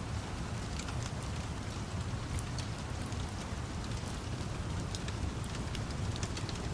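Steady rain with a low rumble underneath, dotted with sharp little pops and crackles that fit a wood fire.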